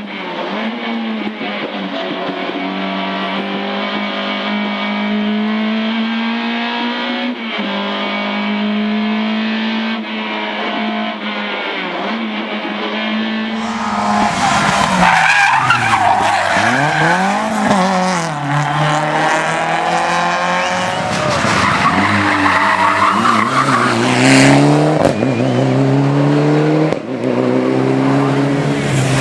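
Rally car engine held at high revs with a steady note. About halfway through, an engine revving hard up and down through gear changes and lifts, with tyres squealing and skidding.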